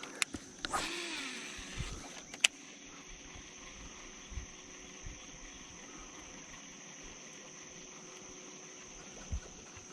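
A fishing cast with a spinning reel: a swish of rod and line in the first two seconds, then a sharp click about two and a half seconds in. After that, a steady high insect drone over a faint low hum.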